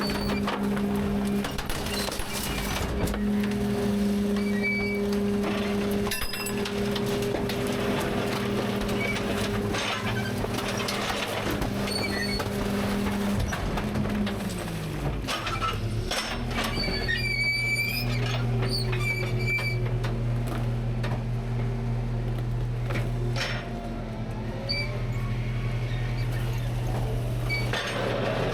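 Rear-load garbage truck at work, its engine humming steadily at raised revs, then falling in pitch about halfway through and settling to a lower steady run. Scattered metal knocks, clanks and short high squeals come from the hopper.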